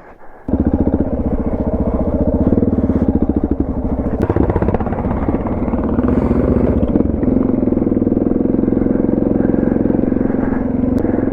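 Suzuki DR650's single-cylinder four-stroke engine running under way, cutting in abruptly about half a second in; the engine note changes about seven seconds in.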